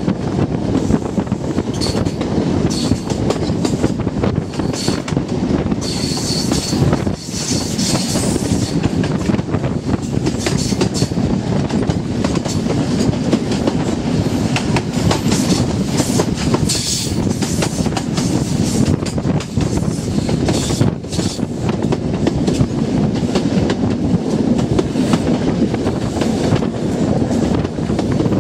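Mark 3 coach of an HST train running along the line, heard from an open window: a steady rumble of wheels on rail, with brief high wheel squeals a few times.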